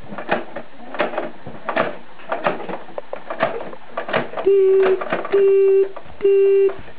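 Plastic toy garbage truck parts clicking and knocking, then a child imitating a reversing truck's beeper: three steady beeps of about half a second each, in the second half.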